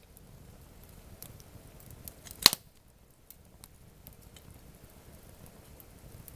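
Campfire wood burning with sparse small crackles and one loud sharp pop about two and a half seconds in.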